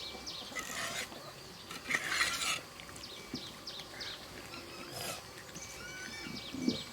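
Birds chirping: many short, quick, high calls, with a few brief rustling noises in between.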